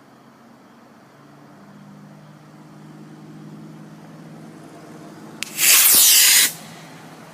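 Estes model rocket's black-powder motor igniting and lifting off: a sharp pop about five and a half seconds in, then a loud hiss lasting about a second as the rocket leaves the pad. A faint steady low hum sits underneath.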